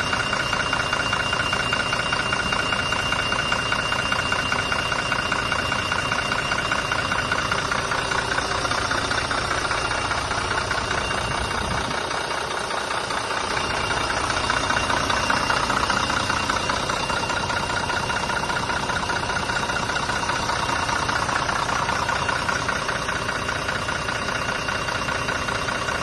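Diesel engine of an Irisbus Arway coach idling steadily, with a slight change in tone and a small rise in loudness about halfway through.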